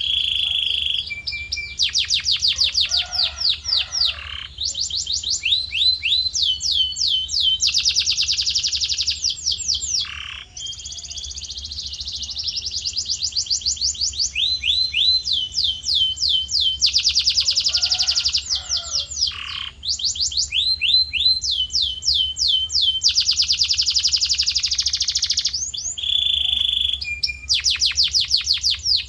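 Male canary singing in long, fast rolling trills: one rapidly repeated note after another, each run lasting a second or two before switching to a new pattern. A faint low hum runs underneath.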